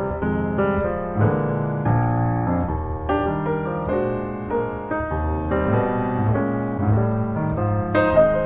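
Background piano music, notes struck in a steady flowing pattern.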